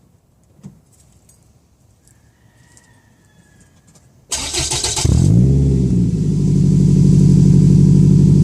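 Scion tC's four-cylinder engine starting through an aftermarket SRS axle-back exhaust. About four seconds in the starter cranks briefly, the engine catches with a quick flare in revs, then settles into a steady idle.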